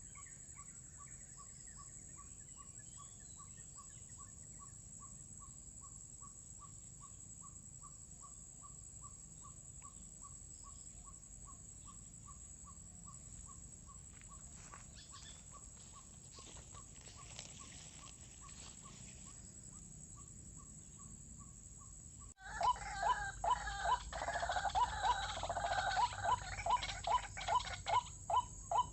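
White-breasted waterhen calling, one short call repeated monotonously about twice a second. About 22 seconds in it suddenly becomes much louder, with a busier jumble of harsher calls over the same steady rhythm.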